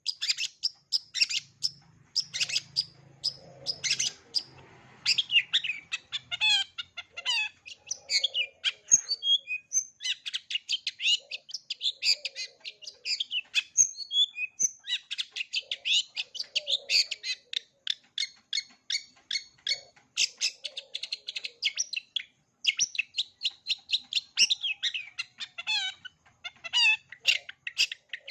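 Long-tailed shrike (cendet) singing a fast, varied chattering song of short notes strung almost without pause, with a brief lull midway; the song is packed with 'isian', phrases mimicked from other birds.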